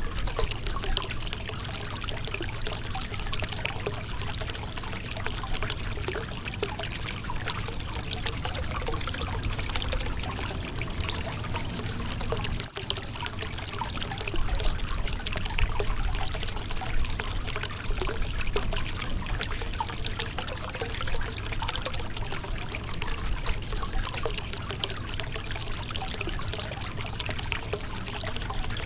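Shallow river water running and trickling over a rocky bed, a steady rush of water with fine splashing detail and a momentary break about twelve seconds in.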